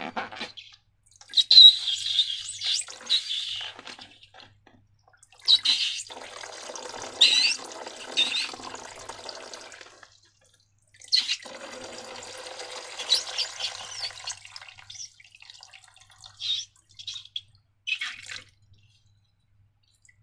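Wet, sticky slime being squeezed and poured, in three bursts of a few seconds each with short squelching squeaks, then a few brief clicks near the end.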